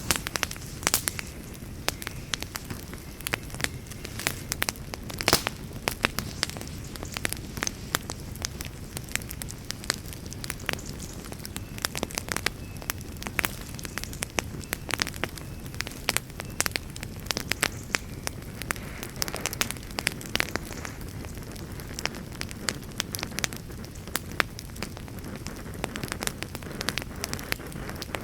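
Wood fire crackling: frequent sharp irregular pops and snaps over a steady low rush of burning.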